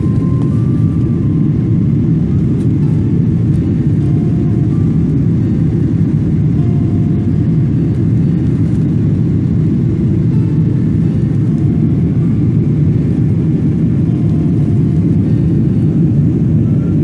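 Steady rumble of a Boeing 777-300's jet engines and airflow, heard from inside the passenger cabin.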